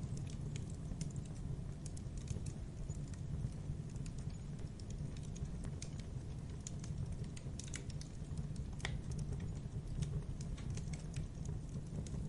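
Campfire crackling: a steady low rumble of burning wood under irregular sharp pops and snaps, with a couple of louder snaps a little past the middle.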